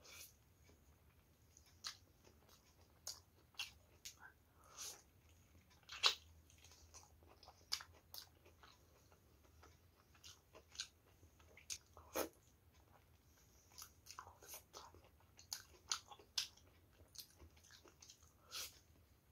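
A person biting and chewing saucy chicken drumstick meat: irregular wet mouth smacks and clicks, with the loudest about six and twelve seconds in.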